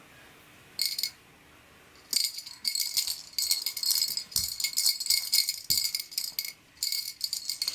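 A small rattle shaken in quick bursts, with a jingly, high-pitched rattle: one short shake about a second in, then a run of shaking with brief pauses.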